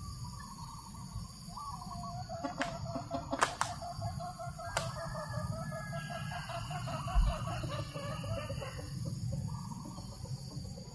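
A chicken calling in a long, wavering series of notes that lasts several seconds, with a few sharp clicks partway through. Under it run a steady high insect drone and the low rumble of a breeze.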